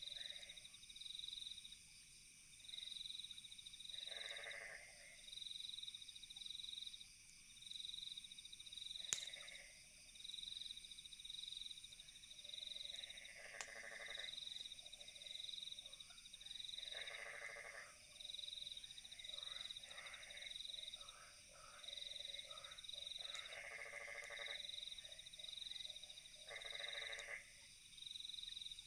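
Night chorus of crickets chirping in a steady, even pulse, with frogs croaking in short calls every few seconds. A single sharp campfire crackle comes about nine seconds in.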